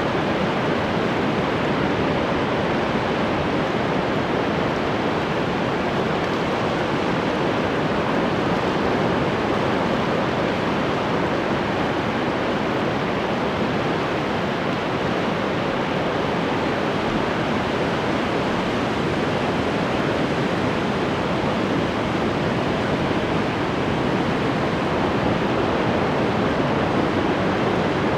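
Ocean surf: a steady, even wash of waves with no single breaker standing out.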